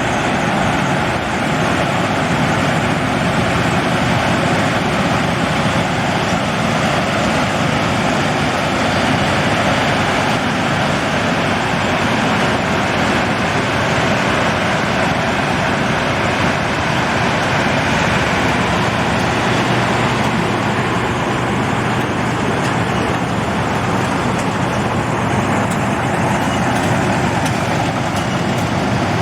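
Combine harvester running steadily at work, its engine and threshing machinery making a dense, unbroken mechanical noise.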